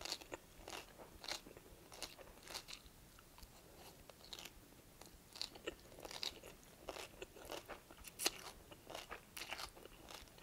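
A person chewing and slurping spiralized kohlrabi noodles stir-fried with julienned carrots and bean sprouts: a run of short, irregular crunches as the noodles are drawn in and bitten.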